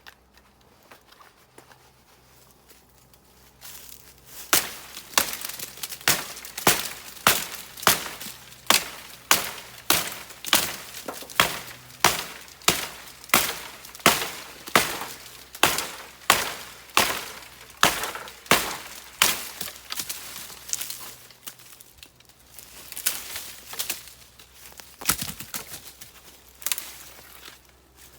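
Wood being cut by hand in a steady rhythm of sharp strokes, about one and a half a second, that starts about four seconds in, pauses briefly past the middle, then goes on more unevenly.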